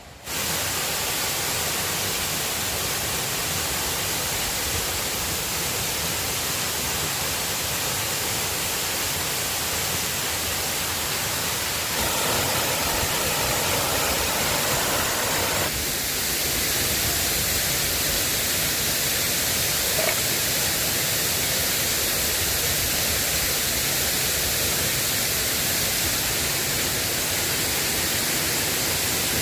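Steady rain falling, an even, loud hiss that starts abruptly. For a few seconds in the middle it turns fuller and brighter.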